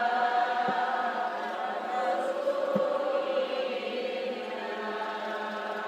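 Voices chanting Islamic sholawat together in long, held notes, the melody stepping down about two seconds in. Two soft low knocks sound under the singing.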